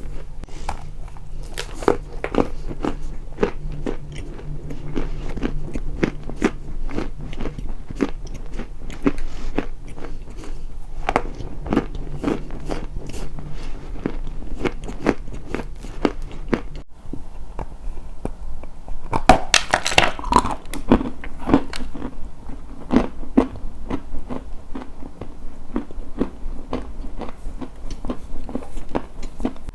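Close-miked biting and chewing of something crunchy: a dense run of crisp crunches, a faint low hum under them that stops about two-thirds of the way through, then louder, sharper crunches.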